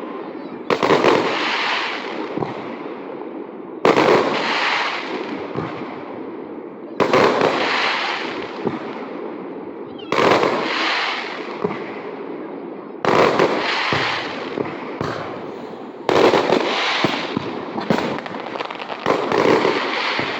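Aerial fireworks shells bursting one after another: seven loud bangs about three seconds apart, each trailing off over a couple of seconds.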